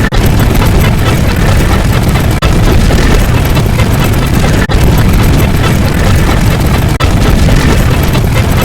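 A loud, dense rumbling sound effect, heaviest in the lows, that repeats as a loop with a brief dip about every two and a half seconds.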